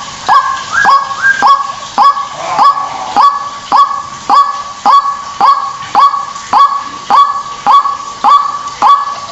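White-breasted waterhen calling over and over: a harsh, rising 'kwak' repeated about twice a second in a steady, unbroken series. This is a recorded call played as a lure to draw the birds in.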